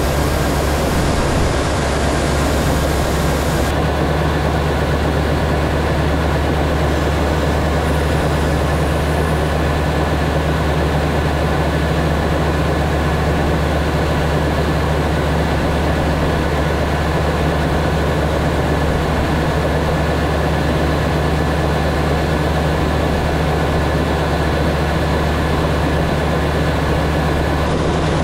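Diesel engine of a large farm machine running at a steady speed, giving a constant low drone.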